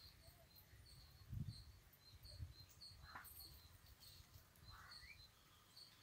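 Near silence, with a faint high chirp repeating about twice a second from a bird, and a soft low thump about one and a half seconds in.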